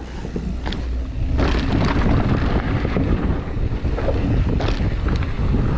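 Wind rushing over the microphone with tyre and trail noise from a Pivot Switchblade mountain bike riding fast down a dirt trail, with short rattles and clicks from the bike over rough ground. It gets louder about a second and a half in.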